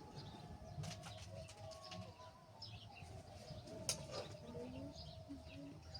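Faint bird chirps and cooing over quiet background rumble.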